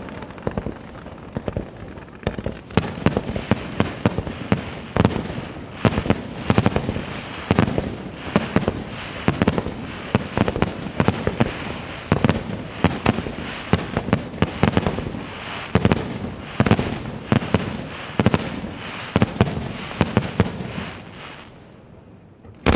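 Fireworks display: a rapid, unbroken barrage of aerial shell bangs and crackles, several a second, thinning out and fading near the end.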